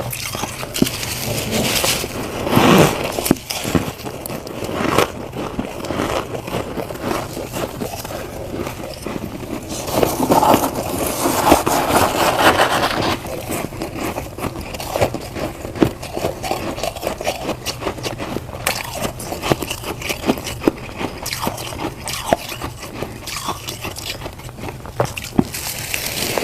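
Close-up crunching of freezer frost being bitten and chewed: a dense crackle of small crunches, with louder bites a couple of seconds in and again about ten seconds in.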